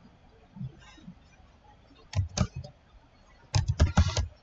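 Clicking and tapping on a computer keyboard and mouse: two clicks about two seconds in, then a quick run of keystrokes near the end.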